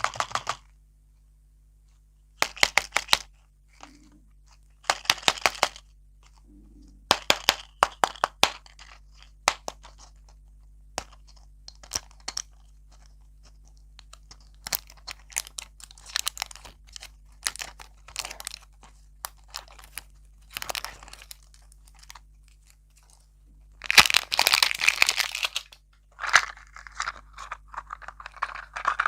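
Close-miked crunching in short bursts every second or two, from crunchy candy and desserts being bitten and chewed; a longer, louder stretch comes a little before the end.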